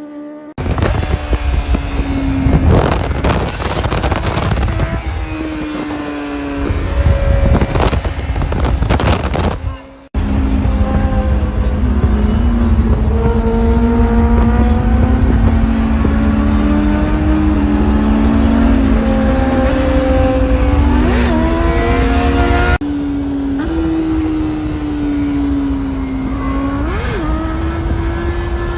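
Superbike engines and exhausts running at high revs in three back-to-back clips, the pitch rising and falling with the throttle, with bikes going past loudly twice in the first clip.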